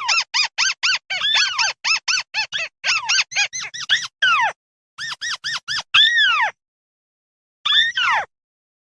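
Flock calls of the bird known in Vietnam as mắt xéo: fast runs of short, squeaky arched notes, about five a second. They break off for about a second after the middle and resume with a few longer falling notes.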